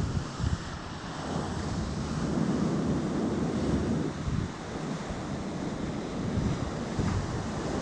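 Sea surf washing ashore, with wind buffeting the microphone in uneven low gusts.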